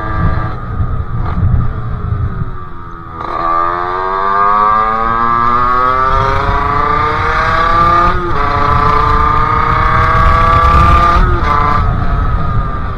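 Sherco 50cc two-stroke engine with a KRM expansion exhaust and a Polini 17.5 carburettor, under way: the revs fall over the first few seconds, then climb steadily from about three seconds in as it accelerates, with a brief dip about eight seconds in and the revs dropping again near the end. A low wind rumble on the microphone runs underneath.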